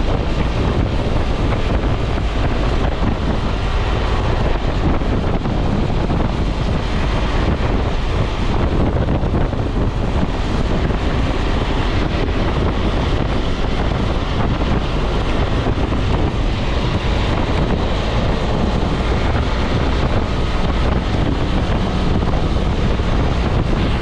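Steady wind noise buffeting the microphone while riding a BMW F650 motorcycle, with engine and road noise underneath.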